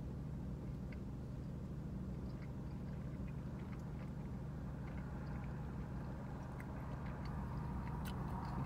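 Parked car's engine idling with the air conditioning running: a steady low hum, with faint chewing clicks scattered through it.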